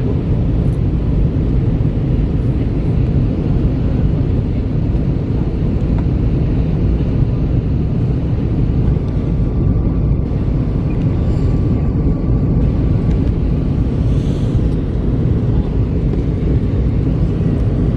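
Steady low rumble of airflow and engines heard inside the cabin of an Airbus A321 in flight on approach, with a faint thin tone partway through.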